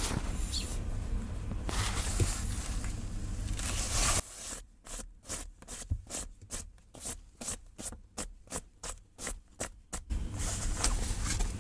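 A quick, regular run of short scraping or scratching strokes, about three or four a second, starting about four seconds in and stopping near the end.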